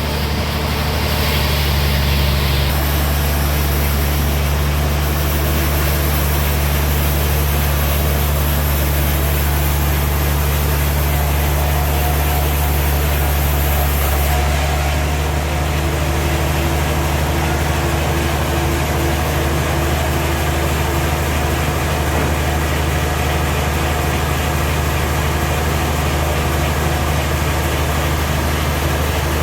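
Sawmill engine running steadily with a deep, even hum. A high hiss rides over it for the first half and stops about halfway through.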